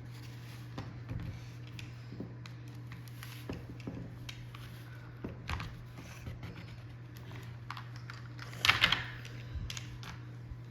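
Plastic toy excavator being worked in kinetic sand: scattered light clicks and taps of plastic parts, with a louder scraping rustle about nine seconds in.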